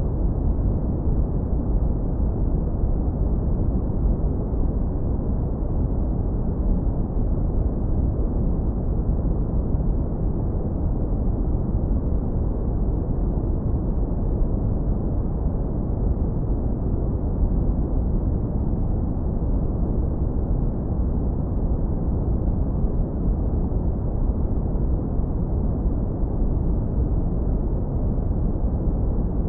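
Synthetic brown noise, heavily low-pass filtered into a deep, warm rumble. It holds steady at an even level with no changes or events, and it fades out above about 2 kHz.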